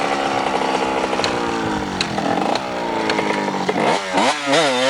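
Dirt bike engine running at a steady rev, easing off after about two seconds, then revved up and down a few times near the end.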